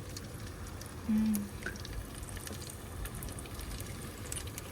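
A short hum from a person's voice about a second in, over a low steady background with faint scattered clicks.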